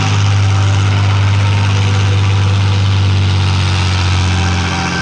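Competition pulling tractor's engine running hard and steady at full load while dragging the brake sled, with a deep, even drone that eases slightly near the end.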